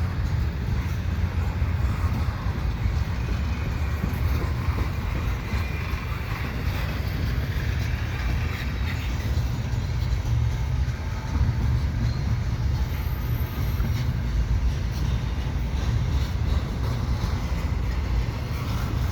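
CN double-stack container freight train rolling slowly past, its cars making a steady low rumble on the rails.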